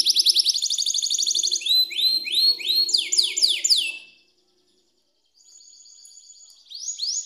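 Domestic canary singing: a fast rolling trill gives way to slower repeated swooping notes, then a short pause about four seconds in, a faint thin high note, and a new run of quick sweeping notes near the end.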